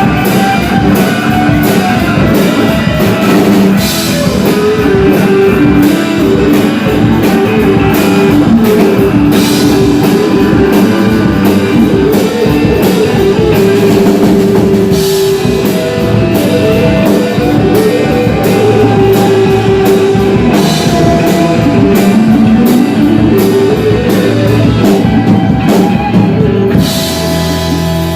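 Loud rock music with a drum kit and guitar playing a continuous melodic line over a steady beat.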